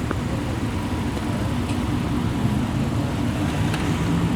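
Car engines idling, a steady low rumble.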